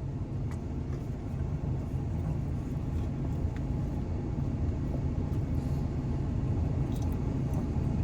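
Steady low rumble of a vehicle engine idling, heard from inside a truck cab, with a few faint clicks.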